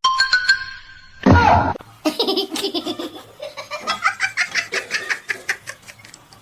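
A person laughing hard in quick repeated bursts, after a short loud cry about a second in.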